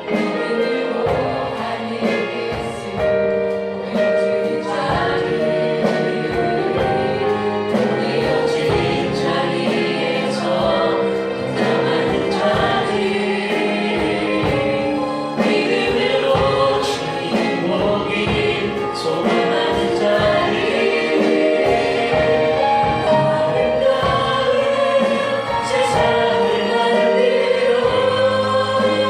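Church choir singing a praise song with instrumental accompaniment and a steady beat.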